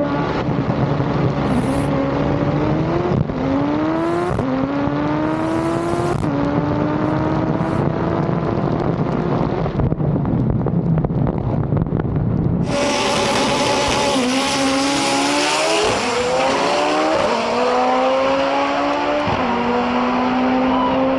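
Stick-shift drag racing car at full throttle down the strip, its engine pitch climbing in each gear and dropping sharply at each quick manual gear change. About two-thirds of the way through, the sound changes abruptly to another pass with the same climb-and-shift pattern.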